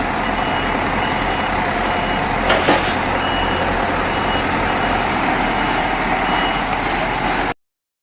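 A truck's engine running steadily with a high-pitched reversing beeper sounding, which pauses for about a second midway. Two sharp clicks about two and a half seconds in.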